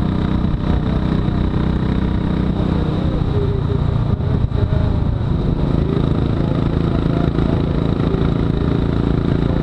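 Royal Enfield Classic 500's single-cylinder engine running steadily while riding at road speed; its note shifts about halfway through.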